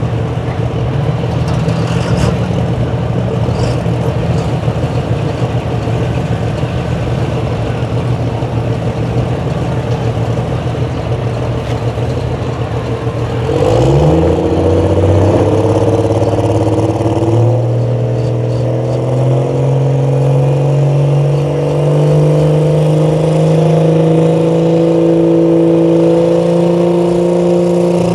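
Dodge pickup's engine in a truck pull. It holds a steady high idle, then revs up sharply about halfway through as the truck launches. Its pitch then climbs slowly as it pulls under load.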